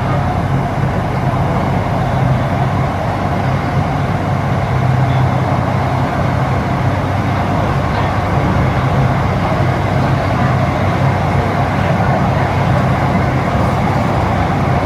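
Inside a moving electric metro train car: the steady running noise of the train, a low hum from the drive under an even rumble of wheels on the rails.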